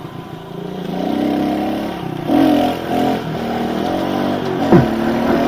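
Kawasaki KLX110 pit bike's small single-cylinder four-stroke engine running under way, revving up about a second in and changing pitch again partway through, with a sharp knock near the end. Heard muffled through the camera's waterproof case.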